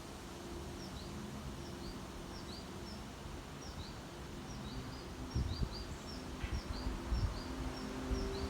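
A small bird chirping over and over, short high chirps at about two to three a second, over a low steady hum and a few low thumps of wind on the microphone.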